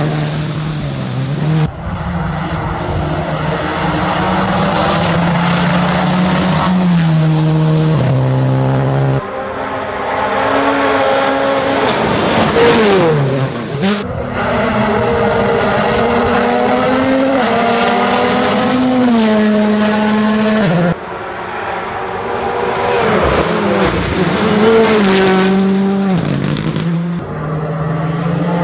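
Rally car engines at full throttle, revving up and dropping in pitch through gear changes, with some tire squeal; the sound changes abruptly several times as one car gives way to another, and one car sweeps past about halfway through.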